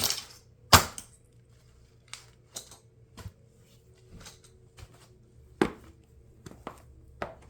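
Plastic parts of a toy RC car cracking and snapping under high heels, in irregular sharp cracks: four loud ones with smaller crackles between them.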